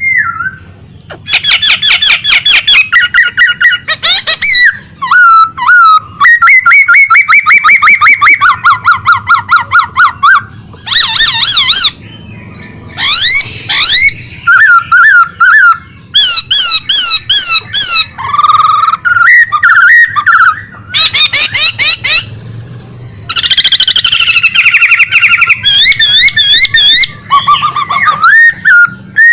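A songbird singing vigorously and loudly: fast trills, runs of repeated rising-and-falling whistled notes and chattering phrases, in bursts of a few seconds with short pauses between.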